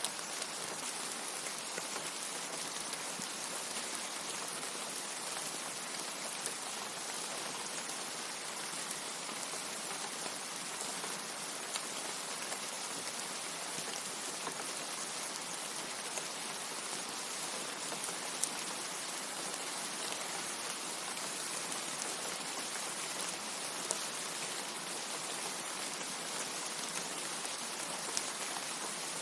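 Steady rain: an even, dense hiss with a few louder single drops standing out now and then.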